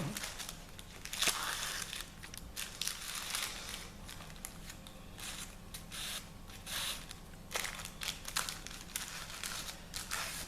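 Irregular rustling and crinkling of fabric and backing paper being handled as tacking thread is pulled out of the sewn appliqué, in short scratchy spurts.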